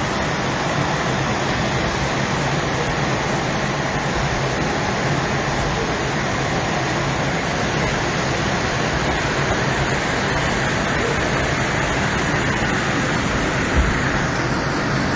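Steady rushing roar of fast-flowing floodwater, even and unbroken, with a brief low thump near the end.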